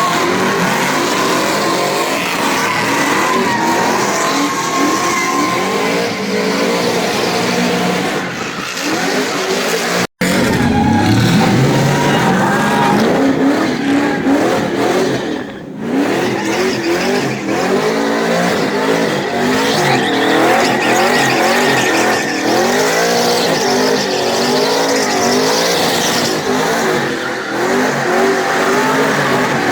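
Engine of a drifting truck revving up and down repeatedly, with tyres squealing as it slides. The sound breaks off for an instant about ten seconds in.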